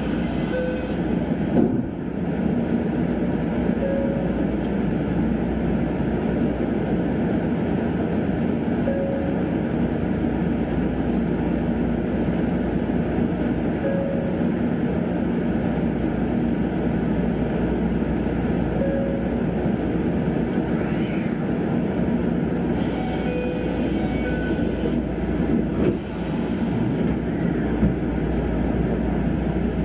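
Steady hum and rumble of a Sanyo Electric Railway train standing at a platform, heard from inside the car, with faint short tones repeating about every five seconds.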